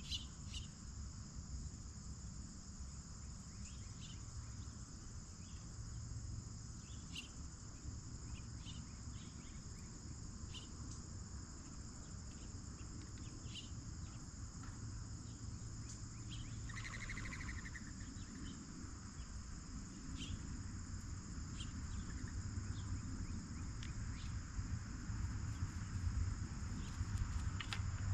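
Steady insect chorus, two high even trills, with scattered faint ticks and a short pulsed buzz about seventeen seconds in, over a low outdoor rumble.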